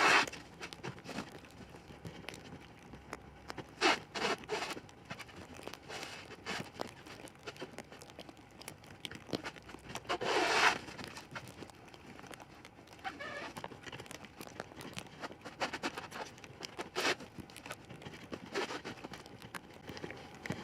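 Plastic pallet wrap being pulled off the roll and stretched around a roof frame: irregular crackling and rustling, with a few louder tearing bursts, the loudest about ten seconds in.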